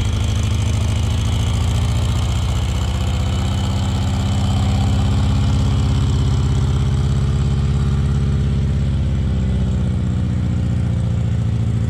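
Satoh S650G tractor engine running steadily, swelling slightly in level around the middle.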